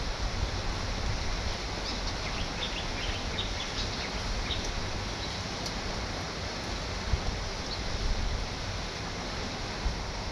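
Heavy rain falling in a steady hiss while wind gusts rumble against the microphone, with a few short high ticks in the first few seconds.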